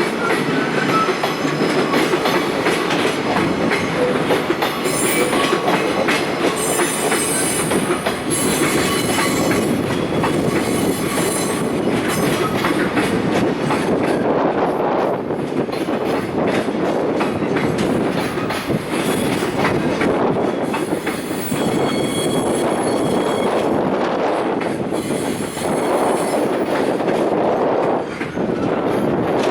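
Freight train of container wagons rolling past while slowing to arrive at a station, wheels clacking over the rail joints, with high-pitched brake and wheel squeal coming and going twice.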